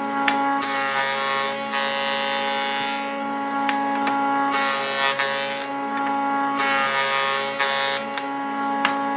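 Wood lathe running with a steady motor hum, while a turning tool or abrasive scrapes the spinning wood in repeated passes of a second or two each.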